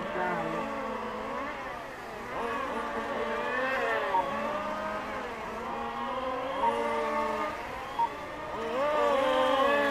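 Several radio-controlled race cars lapping, their motors' whines rising and falling in pitch as they accelerate and brake. A few short electronic beeps, most likely from the lap-timing loop as cars cross it.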